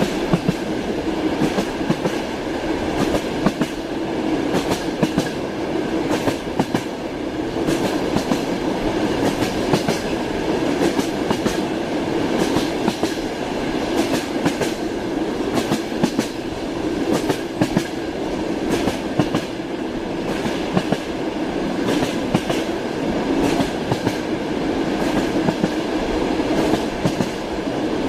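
Train wheels clacking over rail joints against the steady rumble of a moving train, with many sharp clicks at uneven intervals.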